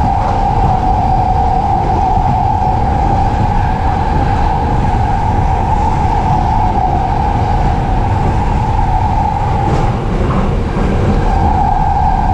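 Running noise of an E233-series electric commuter train heard from inside the car: a steady rumble with a constant mid-pitched drone that drops away for about a second near the end, then returns.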